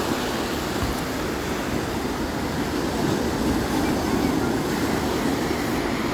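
Sea waves: a steady rush of surf with no clear breaks.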